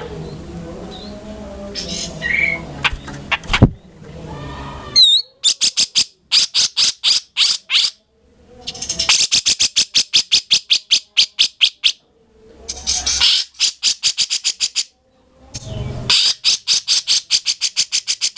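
Cucak jenggot (grey-cheeked bulbul) giving runs of rapid, harsh chattering notes, about ten a second, in four bursts of two to three seconds with short pauses between them. The first few seconds hold softer, mixed calls.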